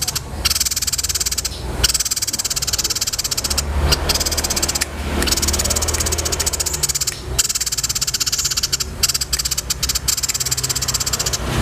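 A dense chorus of fast, rattling chirps and trills, with a low steady hum underneath.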